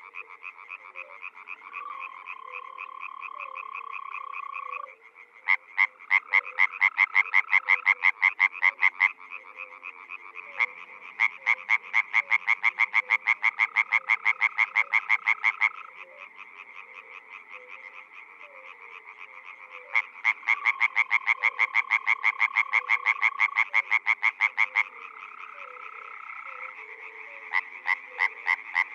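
A chorus of frogs calling: several-second runs of rapid pulsed calls that start and stop, overlapping steadier trills from other frogs.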